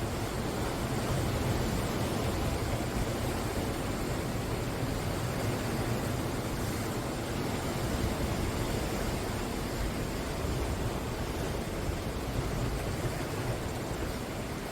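Ocean surf: waves breaking and washing on the shore in a steady rush of noise that swells slightly now and then.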